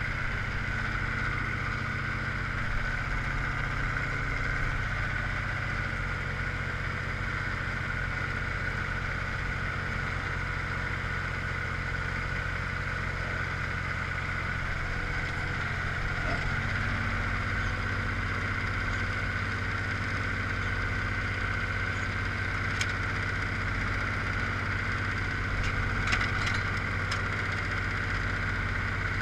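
1982 Ford 1900 three-cylinder diesel tractor engine running steadily, just after a cold start. Its note shifts slightly about sixteen seconds in.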